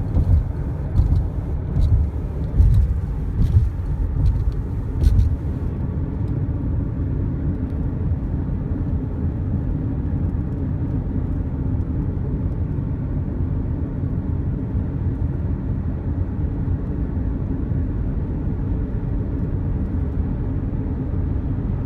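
Car driving at speed: a low rumble of road and wind noise. For about the first six seconds irregular thumps and a few sharp clicks ride on it, then it settles into a steady rumble.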